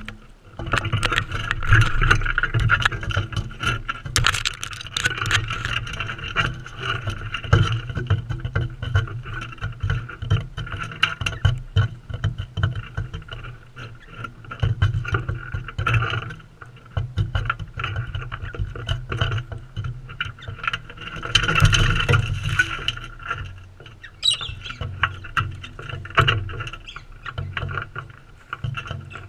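Birds feeding right at the camera: a dense run of irregular clicks, taps and scrapes from beaks working seed and the feeder, over a steady rumble.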